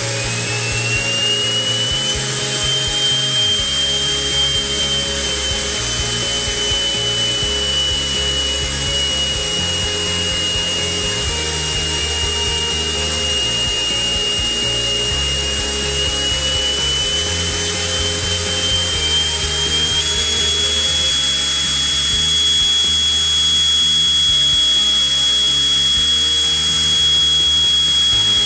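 Miniature turbine engine running in a test cell: a high steady whine over a rushing hiss, climbing in pitch during the first couple of seconds, then holding, sagging slightly and climbing again about two-thirds of the way through as the speed changes. Background music plays underneath.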